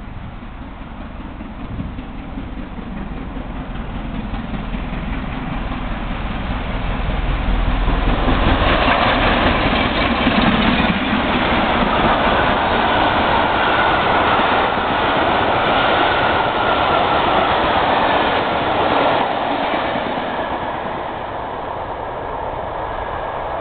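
LMS Class 5MT 4-6-0 steam locomotive and its train passing close by: the sound builds as it approaches, is loudest for about ten seconds as the engine and carriages go past, then eases off as the train moves away.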